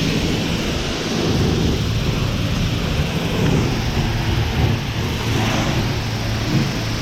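Self-service car wash high-pressure rinse wand spraying water, a steady loud hiss and rush of spray against the truck's body.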